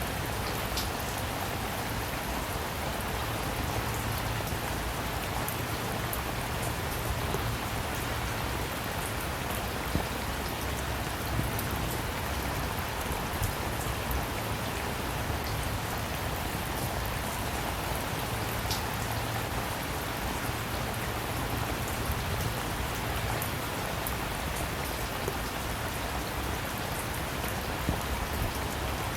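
Steady rain falling, with scattered sharp ticks of single drops striking a surface. No thunder.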